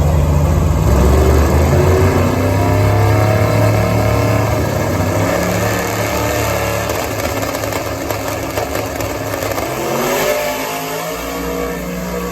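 Drag race car accelerating hard, its engine pitch climbing several times over as it revs up through the gears and growing fainter as it pulls away.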